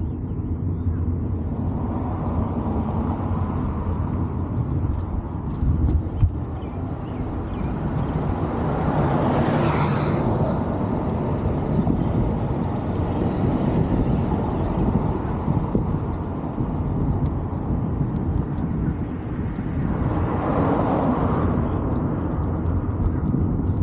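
Steady low rumble of outdoor road noise, with two vehicles passing by, one about nine seconds in and another a little before the end.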